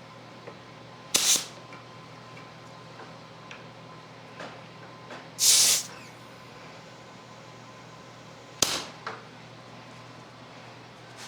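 Three short, sharp hissing bursts, the middle one the longest, with a few faint clicks between them.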